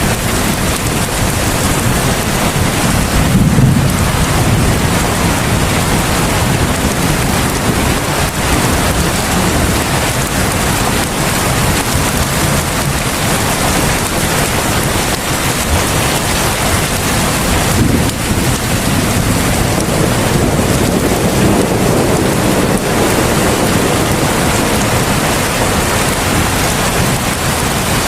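Heavy rain falling steadily, a dense even hiss with a deep low rumble underneath that swells about three to four seconds in.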